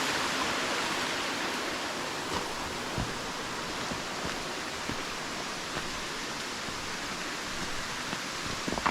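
Rushing water of a creek's cascades, a steady hiss that eases a little over the first couple of seconds and then holds, with a few faint knocks.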